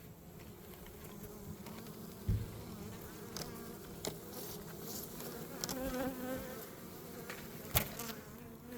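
Honeybees buzzing inside an opened hive, a wavering hum that swells around the middle. A few sharp knocks come through it, the loudest about two seconds in and another near the end.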